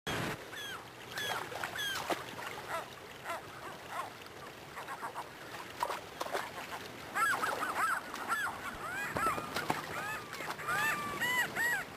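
A flock of birds calling, with many short rising-and-falling calls overlapping one another. They grow busier and louder from about seven seconds in.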